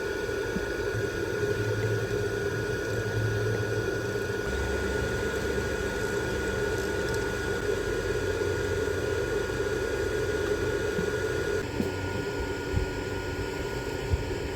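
Electric fan running: a steady rush of air with a constant high whine and a low hum, shifting slightly a couple of times, with a few faint taps near the end.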